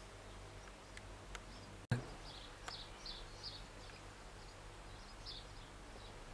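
Starlings calling in short, repeated chirps over a faint steady hum, after a brief knock about two seconds in.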